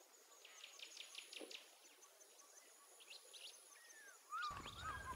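Faint birds chirping in quiet woodland, with quick trills about half a second in and again around three seconds in. Near the end, a low rumble starts.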